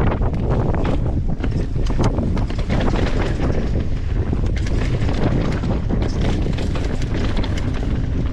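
Wind buffeting the microphone of a mountain bike descending a rough dirt trail, with the bike clattering over the ground in frequent short knocks.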